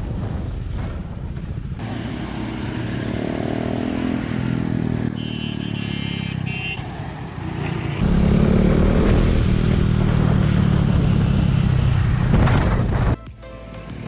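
KTM RC 390's single-cylinder engine through an aftermarket slip-on exhaust while being ridden, its pitch rising under acceleration. The sound changes abruptly about two, eight and thirteen seconds in, and is loudest and steadiest in the second half.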